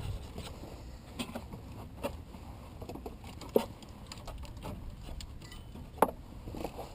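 Hand tools and metal parts clicking and clinking during work on a car, with two sharp metallic knocks, about three and a half and six seconds in.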